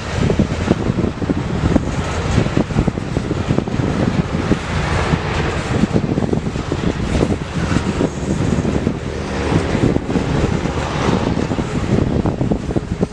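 Freight train rolling past close by: a continuous loud rumble with the quick, irregular clatter of wheels on the rails.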